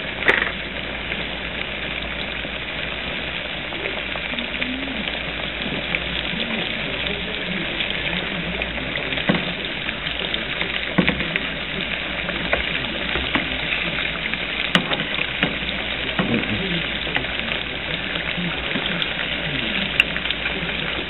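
Coated green tomato slices frying in hot oil in a pan: a steady sizzle with many small crackles and pops, and a few sharper clicks scattered through.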